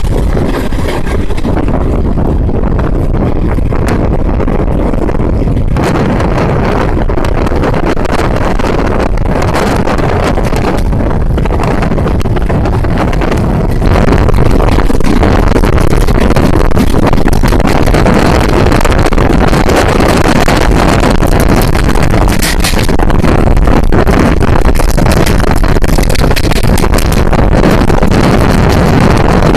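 Steady running noise of a moving passenger train, with wind buffeting the microphone. It gets louder about halfway through.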